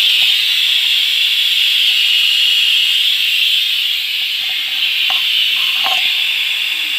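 Pressure cooker whistling: steam jets out under the weight in one loud, steady, high hissing whistle that lasts about seven seconds and cuts off suddenly. It is one of the whistles counted to time the cooking of the chicken.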